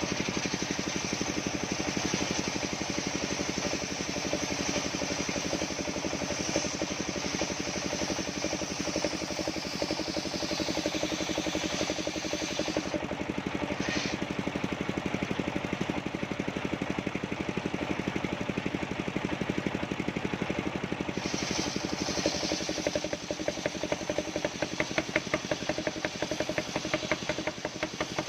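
Engine-driven portable circular sawmill running steadily, its blade cutting coconut-palm wood with a hiss over the engine's drone. The cutting hiss drops out briefly twice, and near the end the engine's beat becomes more pronounced and pulsing.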